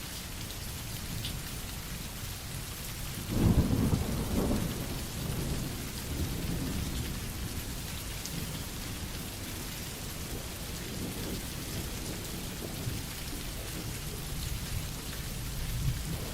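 Steady rain falling, with a clap of thunder about three seconds in that rumbles on and fades over several seconds.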